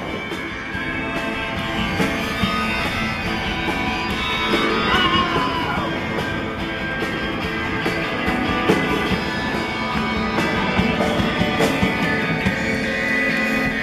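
Live rock band playing an instrumental passage, electric guitar to the fore over a steady beat.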